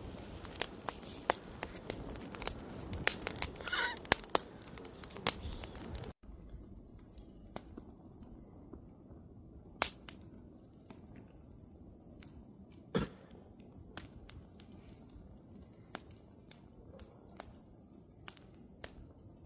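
Wood campfire crackling with sharp pops and snaps, busy for the first six seconds. After an abrupt drop in level it goes quieter, with fewer, scattered pops. A brief wavering whistle comes about four seconds in.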